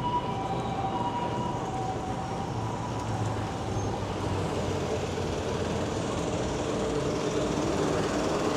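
Busy city street noise with a steady traffic rumble. Two alternating tones sound in the first second and a half, and a louder rumble with a steady hum builds toward the end.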